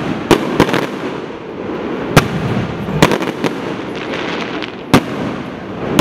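Aerial firework shells bursting: about seven sharp bangs at uneven intervals, the loudest about two seconds in and just before five seconds, over a continuous rushing background of noise.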